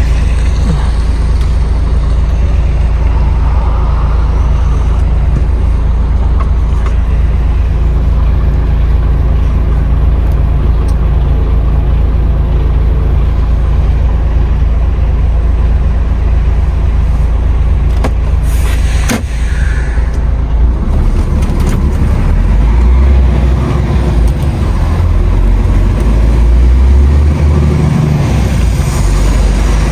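Truck engine running with a steady low drone, as heard inside the cab. About two-thirds of the way through there is a sharp click, after which the low rumble turns uneven and surging.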